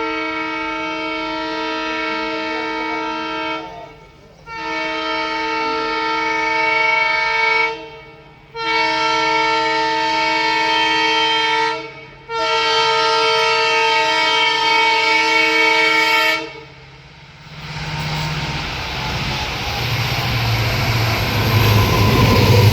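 Locomotive horn of an Indian superfast express train sounding four long blasts of three to four seconds each. About eighteen seconds in, the train begins passing at speed, with wheel and rail noise that grows louder toward the end.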